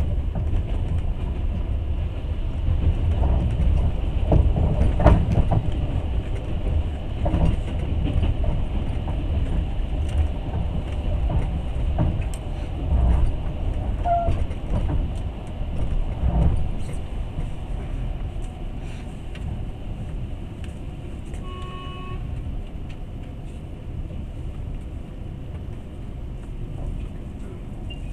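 Passenger train running on the rails, heard from inside the carriage: a steady low rumble with irregular knocks from the wheels over the rail joints, getting quieter over the last third. A brief toot sounds about two-thirds of the way through.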